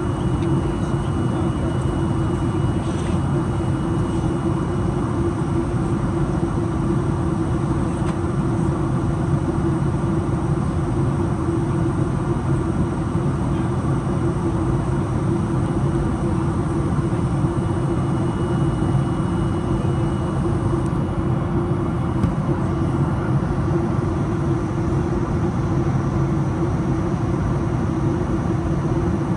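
Steady roar of a Boeing 737-800's engines and airflow heard from inside the passenger cabin, with a deep steady hum and no change in level.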